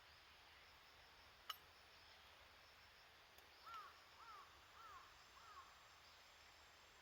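A bird calling faintly four times in quick succession, each call a short note that rises and falls. A single sharp click comes a second or so before the calls.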